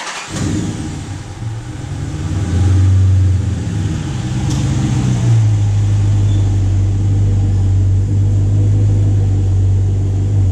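Dodge Challenger's engine running as the car drives slowly into the garage. The low drone grows louder about two and a half seconds in, then holds steady.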